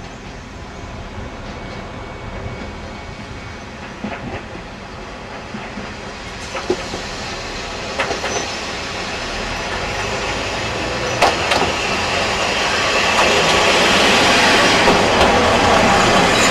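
Kominato Railway diesel train running on jointed track, growing steadily louder, with sharp clacks as the wheels cross rail joints.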